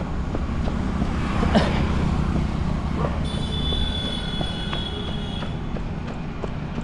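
Running footsteps and low rumbling noise on a handheld phone microphone while jogging, with a high, steady squeal that sounds for about two seconds in the middle.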